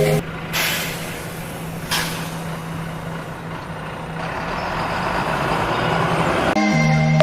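Bus sound effect: a diesel bus engine running with a steady low hum, with short hisses of air brakes about a third of a second and two seconds in. The engine noise swells over the last few seconds.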